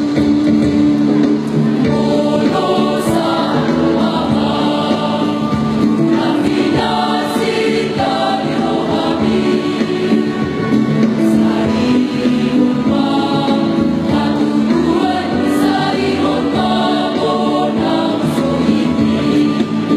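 Choir singing a song in several-part harmony.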